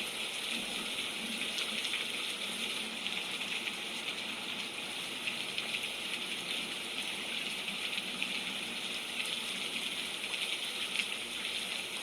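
Steady rain, an even hiss with faint patter of drops.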